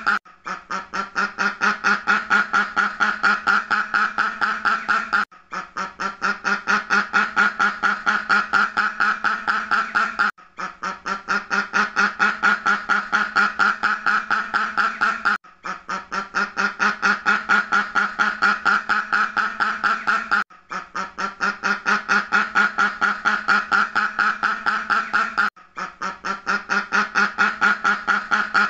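Duck quacking in a rapid, steady run of many quacks a second. It comes in stretches of about five seconds, broken by brief pauses, with the same run repeating over and over.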